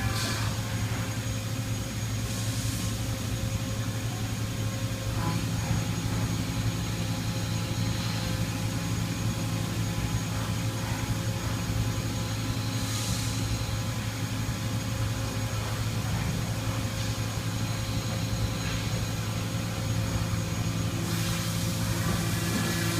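Toyoda CNC horizontal milling machine running with a steady machine hum. Short rushes of hiss break in about two seconds in, again around thirteen seconds, and near the end.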